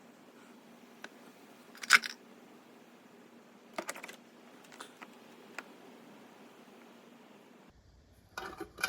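A few scattered light metallic clicks and clinks of hand tools and small engine parts being handled, the loudest about two seconds in. A denser clatter of metal parts starts near the end.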